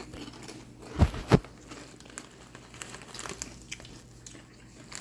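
People biting and chewing crunchy BBQ Doritos tortilla chips, with crackling of the chip bag, and two loud thumps about a second in.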